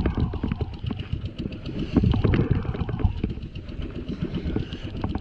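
A small fishing boat's engine running at low speed, chugging unevenly with rattling knocks.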